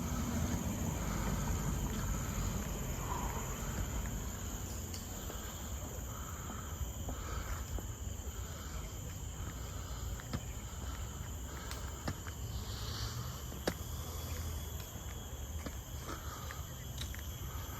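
Tropical forest insect chorus: steady high-pitched droning at several pitches, with a softer pulsing call repeating about twice a second. Light footsteps and a low rumble lie underneath.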